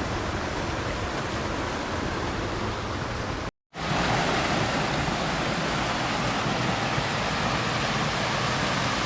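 Steady rushing of a waterfall. It cuts out for a moment about three and a half seconds in, then comes back a little louder.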